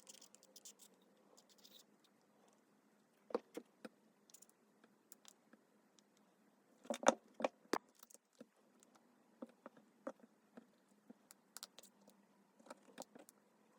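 Scattered faint clicks and taps of a small repair tool working along the edge of a Samsung Galaxy Z Flip 4, lifting the thin strip of front-screen adhesive. A quick run of sharper clicks about seven seconds in is the loudest.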